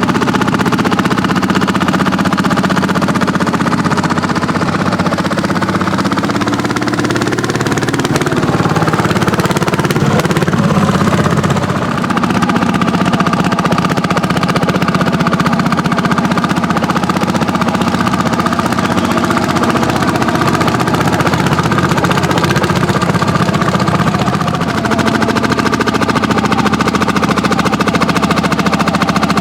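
Several Landini hot-bulb tractors, single-cylinder two-stroke engines, working under load while plowing: a loud, steady, fast thudding with the engines overlapping.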